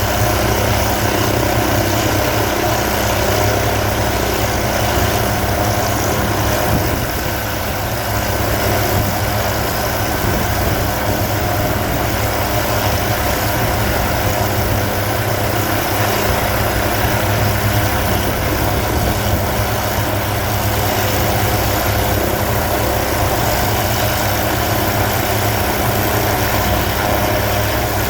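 Hughes 500C helicopter's turbine engine and rotor running steadily: a constant high whine over a low rumble, easing slightly about seven seconds in.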